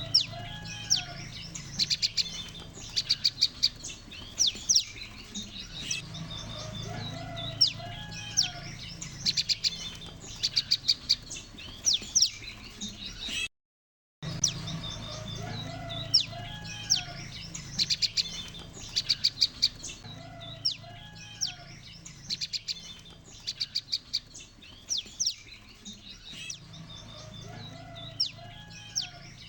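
A group of prenjak lumut birds calling together: many short high chirps and fast rattling trills overlapping. The recording is a lure call of a calling group, used to attract birds for trapping. It cuts out completely for under a second about halfway through, then the same calling starts again.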